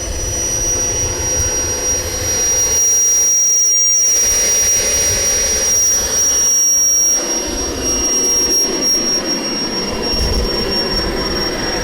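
RC model jet's turbine engine running: a steady high whine over a rushing blast of air and exhaust that swells and eases in strength.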